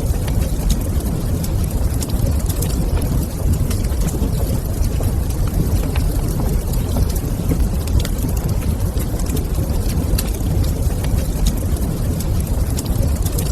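Wood fire crackling in a fireplace: scattered sharp pops and clicks over a steady low rumble.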